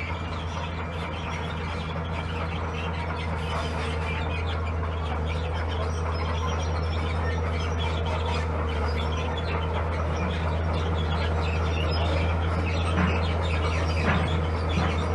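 Bulldozer's heavy diesel engine running steadily under load, growing slightly louder, with high squeaks and clinks over it.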